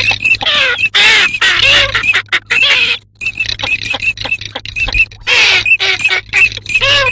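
Calls of migrating ducks (garganey, common teal and northern shoveler): a dense chorus of short, quickly repeated high notes mixed with lower, arching calls, with brief pauses.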